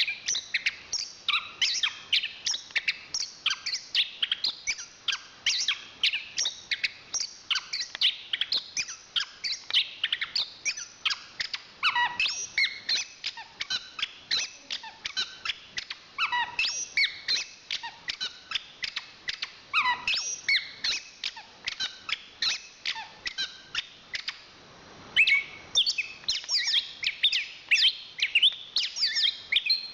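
Chestnut-capped thrush (anis kembang) singing a long, rapid stream of varied whistled and chattering notes, several per second. The song breaks off briefly near the end, then starts again.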